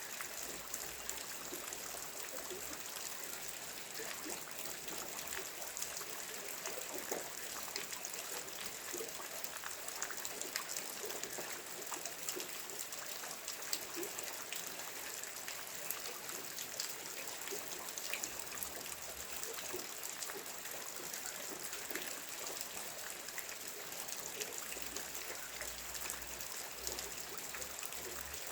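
Steady rain falling, with a dense patter of many separate drops and a constant hiss.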